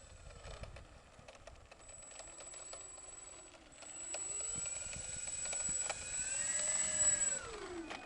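Electric motors and propellers of a twin-motor radio-controlled model plane whining in flight, the pitch rising and falling as it manoeuvres. It grows louder towards the end, then the pitch drops away sharply.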